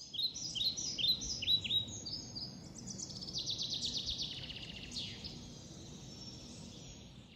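Songbirds chirping and singing: a string of quick, falling chirps, then a fast trill about three seconds in, over a low steady background rumble.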